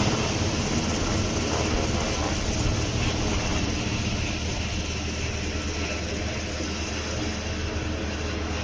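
Sikorsky UH-60 Black Hawk helicopter's rotors and twin turboshaft engines running steadily, slowly growing fainter.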